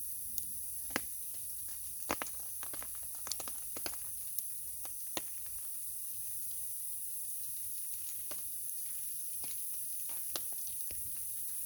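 Wood fire crackling: irregular sharp pops and snaps, bunched in the first few seconds, over a steady high hiss.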